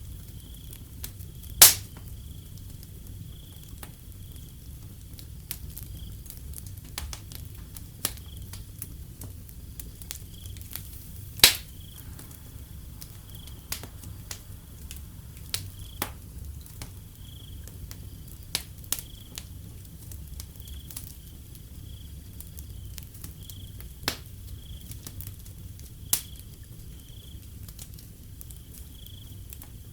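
Wood fire crackling with scattered sharp pops, two of them much louder, about two seconds and eleven seconds in, over a low steady rumble, while crickets chirp in a steady high pulsing trill.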